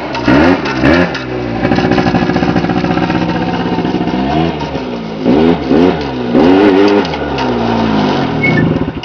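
Polaris 90 ATV's small engine running under way. It revs up and falls back in short bursts of throttle, about four or five times, with a steadier stretch of running in between.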